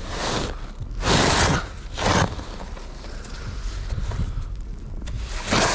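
A snow pusher being shoved through snow: short scraping swishes, a few strokes about a second apart and another near the end, over a steady low rumble of wind on the microphone.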